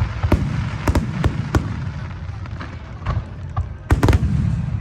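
Fireworks shells bursting: a string of sharp bangs over a continuous low rumble, with the loudest cluster of bangs about four seconds in.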